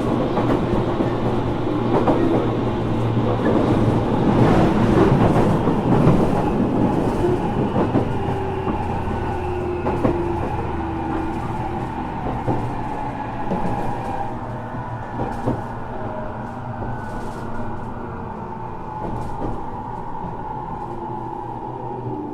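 Interior running sound of a JR Kyushu 415 series 1500 subseries electric multiple unit motor car (MoHa 414-1513), a car labelled as having an unusual running noise: traction motor and gear whine falling slowly in pitch as the train slows, over steady wheel-and-rail rumble with occasional rail-joint clicks.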